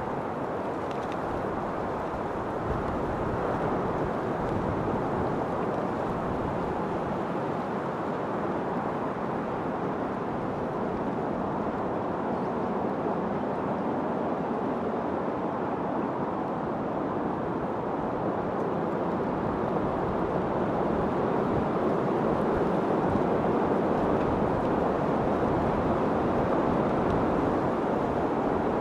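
Steady wind as a low, even rushing noise with no gusts or breaks, growing a little louder over the last third.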